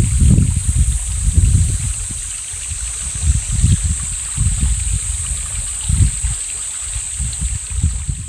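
Mountain valley stream running, with a steady high hiss and uneven low rumbling.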